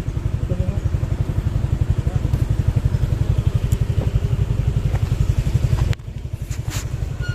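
Motorcycle engine running at low speed, with a steady run of rapid low exhaust pulses. The sound drops abruptly just before the end, followed by a couple of short clicks.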